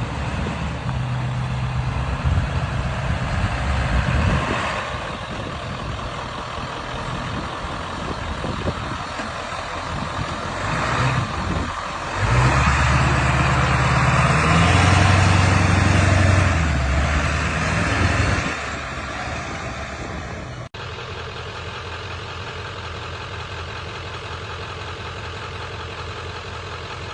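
Old pickup truck engine revving hard in two loud stretches, near the start and again from about twelve to eighteen seconds in, its pitch rising and falling. After a sudden break it settles into a steady, quieter run like an idle.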